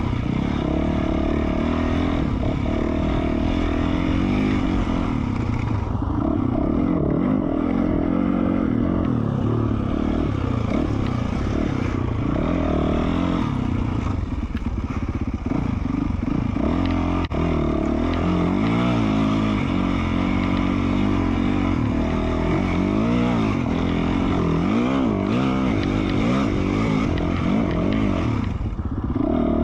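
Yamaha YZ450F four-stroke single-cylinder dirt bike engine with an FMF Q4 slip-on exhaust, under way on a trail ride. The revs rise and fall over and over as the throttle opens and closes through the gears.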